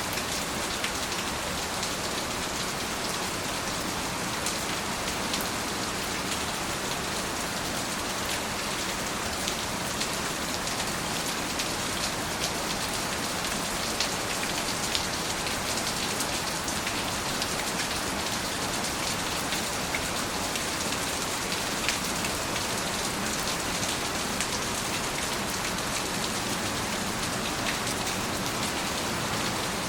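Steady rain falling, an even hiss with scattered sharp patters of individual drops striking a surface.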